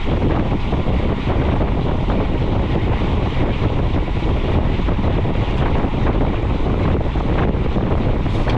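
Steady wind rush buffeting a GoPro action camera's microphone as it rides along on a mountain bike moving at speed.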